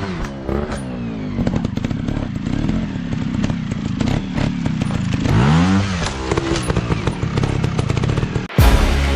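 Off-road dirt bike engine revving up and dropping back twice, at the start and about five seconds in, with clattering knocks in between. About eight and a half seconds in, the sound cuts abruptly to music.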